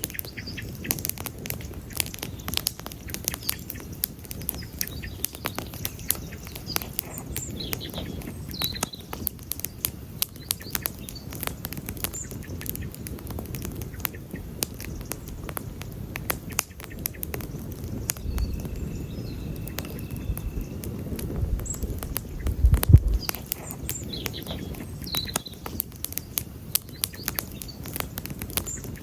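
Wood campfire burning: irregular pops and snaps of crackling wood over the low rush of the flames, with a louder cluster of pops about three-quarters of the way through.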